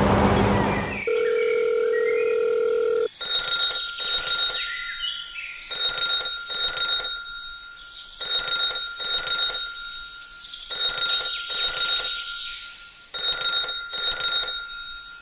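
Electronic bell-like ringing in a double-ring pattern, one pair of rings about every two and a half seconds, like a telephone ringtone or alarm. It starts after a second of noise and a steady two-second tone.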